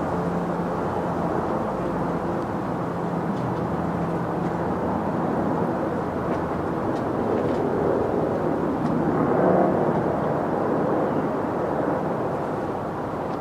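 Helicopter flying, a steady drone with a low hum that grows a little louder about nine seconds in.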